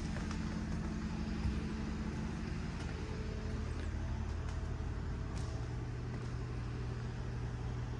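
Steady low engine hum, like a motor vehicle or generator running, with a couple of faint clicks.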